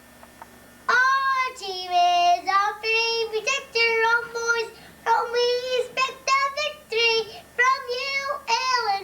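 A four-year-old child singing University of Illinois school songs solo and unaccompanied, coming back in after a pause of about a second and singing on in short phrases.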